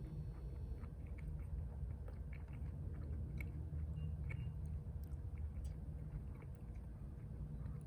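A person chewing a bacon lettuce muffin, with small irregular crunchy clicks, over a steady low rumble.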